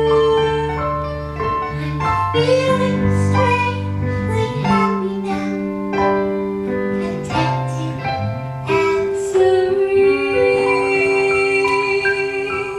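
A woman singing a slow musical-theatre ballad with piano or keyboard accompaniment, in long held notes, ending on a sustained chord.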